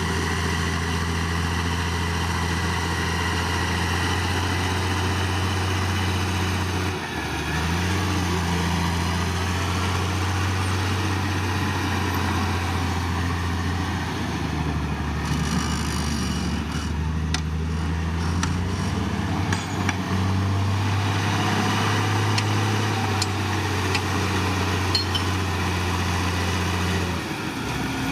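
Heavy diesel engine of earthmoving equipment running steadily, its pitch dropping and rising a few times as the throttle changes. A few faint clicks and clanks about halfway through.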